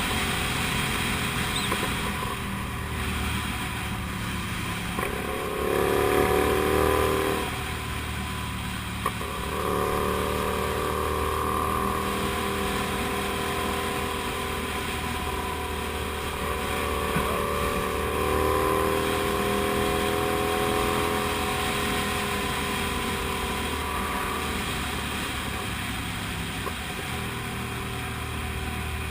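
Comet GTR250 motorcycle's 250 cc V-twin engine running while riding, its revs rising and falling with the throttle, with a louder burst of revs about six seconds in.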